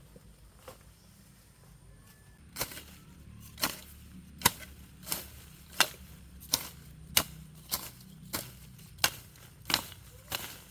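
Hammer blows in a steady rhythm, about a dozen sharp strikes starting a few seconds in.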